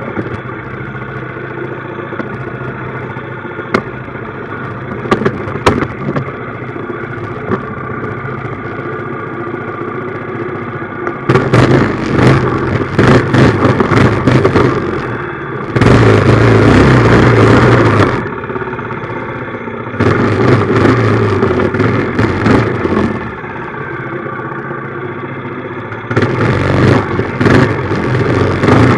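Small minibike engine running steadily at low speed, then opened up in four louder spells, at about eleven, sixteen, twenty and twenty-six seconds in, with rattling.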